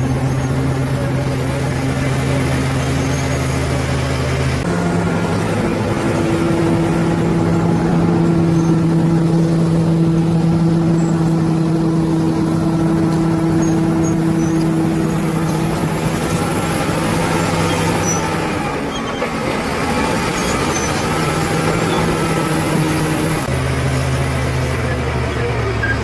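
Bulldozer's diesel engine running steadily; its note steps up about five seconds in as the machine works harder, and drops back to the lower note near the end.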